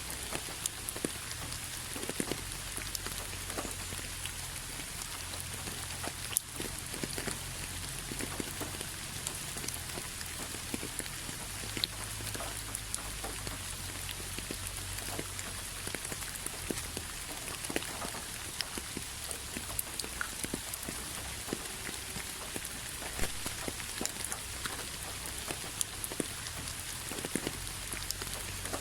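Steady rain falling on a hard surface: a constant hiss with many separate drops ticking and splashing, over a low rumble.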